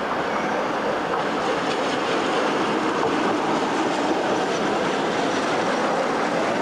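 Freight train passing: wheels rolling along the rails in a steady, loud rolling noise that grows a little louder over the first couple of seconds.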